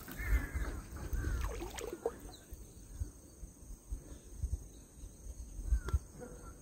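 Faint bird calls: a few short chirps, mostly in the first couple of seconds and again near the end, with scattered low thumps underneath.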